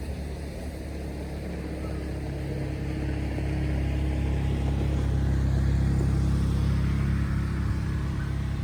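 A motor vehicle's engine running with a low, steady hum that grows louder until about six seconds in, then eases slightly.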